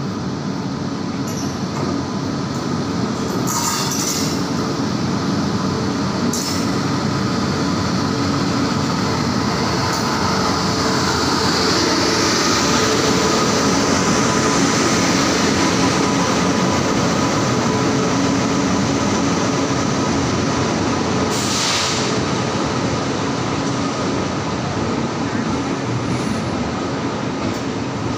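Express train drawing into a platform behind an electric locomotive: a steady rumble and wheel noise that swells to its loudest as the locomotive passes about halfway through, then the coaches rolling by. A few brief hissing bursts break in along the way.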